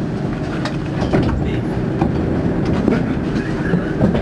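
Düsseldorf SkyTrain suspended-monorail car heard from inside, a steady rumble with scattered short clicks and knocks.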